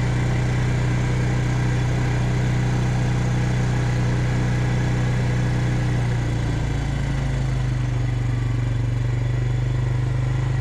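Farm vehicle engine running steadily at low speed. Its pitch drops slightly about two-thirds of the way through.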